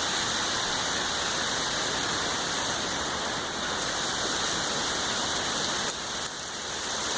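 Steady heavy rain, with water streaming down a rain chain downspout and splashing into the drain below.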